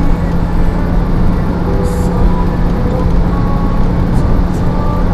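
Steady engine and road rumble of a moving vehicle, with a constant low hum.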